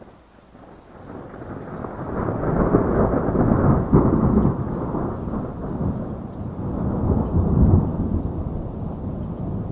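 Thunderstorm: a long rolling rumble of thunder that builds over the first few seconds, peaks about four seconds in and swells again near the end, over steady rain.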